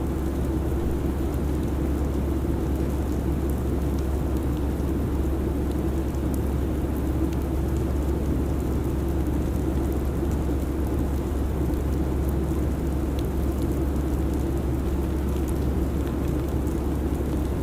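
Steady airliner cabin noise in cruise: an even, unbroken rush with a deep low hum underneath.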